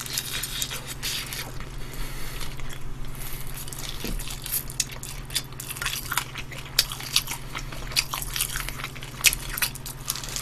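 Close-miked eating of fried chicken: biting and chewing with wet, crunchy mouth sounds and many short sharp smacks at an uneven pace.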